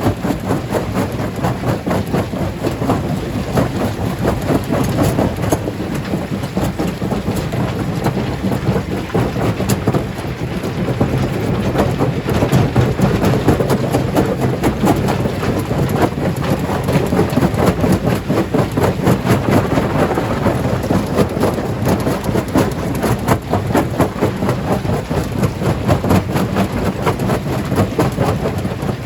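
Stone crusher breaking rocks: a continuous dense clatter and crunch of stones over the steady low drone of the machine.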